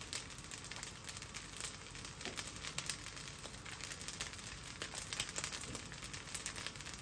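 Egg fried rice crackling in a hot iron wok as a wooden spatula turns it: a steady hiss with a dense run of small pops and clicks.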